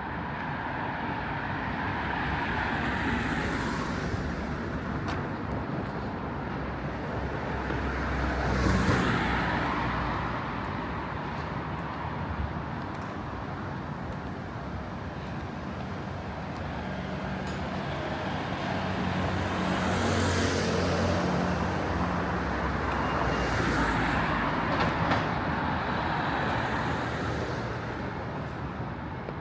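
Road traffic: several vehicles pass one after another, each swelling and fading, over a steady background of city traffic noise. A heavier vehicle's low engine hum runs through the middle stretch.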